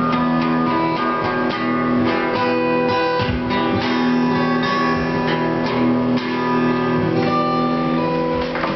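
Acoustic guitars playing the song's closing instrumental passage live: strummed chords with picked notes ringing out.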